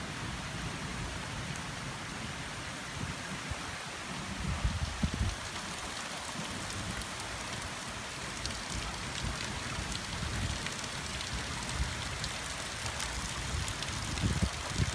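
Steady summer rain falling, an even hiss of drops with faint ticks of individual drops, and low rumbles swelling now and then, about five seconds in and again near the end.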